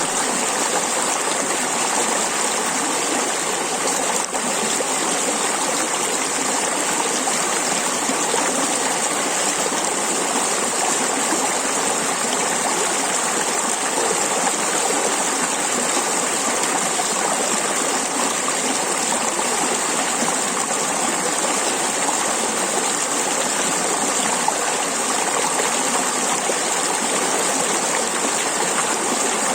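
Clear water flowing and babbling steadily over stones in a shallow stream.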